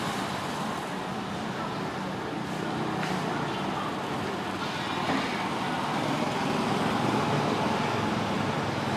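Street traffic: steady engine and road noise from passing vehicles.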